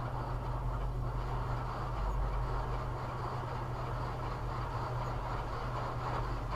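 Automatic car wash running, heard from inside the vehicle: a steady low machine hum under a broad rush of spraying water, which grows louder at the start.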